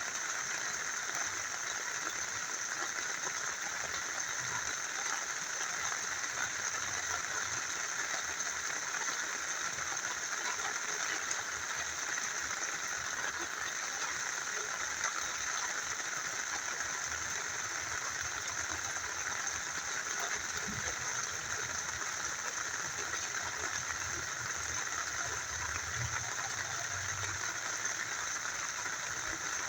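Rain falling together with a small river flowing, a steady, even rush of water with no let-up.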